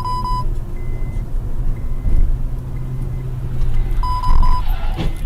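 Two short electronic beeps of one steady pitch, about four seconds apart, over a steady low engine and road drone.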